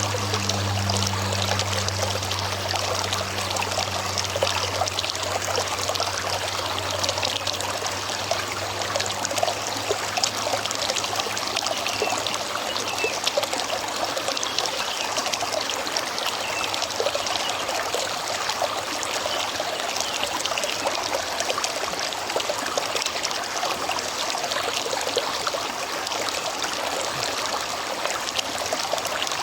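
River water flowing and trickling over stones, a steady splashing rush. A low hum fades out in the first few seconds.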